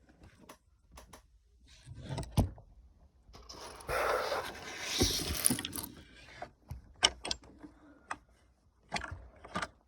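Plastic Lego pieces being handled and pressed together: scattered sharp clicks and taps, with a longer scraping rustle of pieces from about four to six seconds in.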